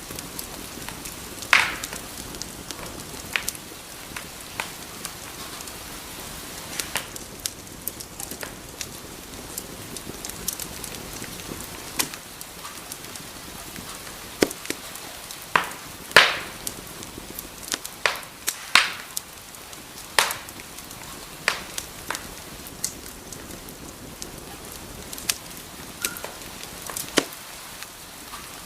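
Wood fire burning in a fireplace: a steady hiss with irregular crackles and sharp pops from the burning logs, a few louder pops standing out.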